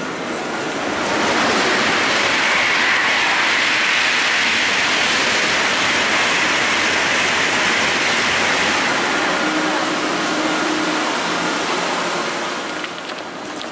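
Loud, steady rushing noise from a train, swelling about a second in and easing off near the end.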